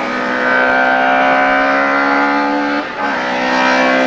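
Hillclimb race car's engine running hard at high revs with a steady pitch, with a short break about three seconds in before it picks up again.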